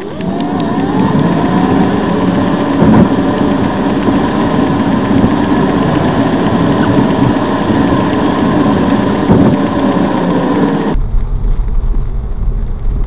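Car engine running steadily, with a faint whine that drifts in pitch; about eleven seconds in it cuts off abruptly to a much quieter low hum.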